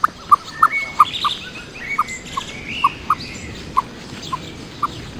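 Birds calling: a short note repeated about twice a second, with higher sliding chirps over it in the first few seconds, against a steady outdoor background hiss.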